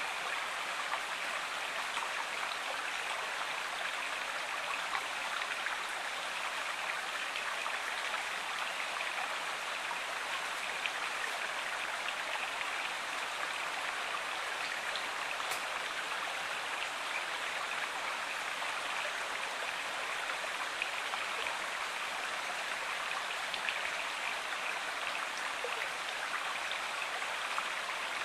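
Flowing river water: a steady, even rush with small splashes scattered through it.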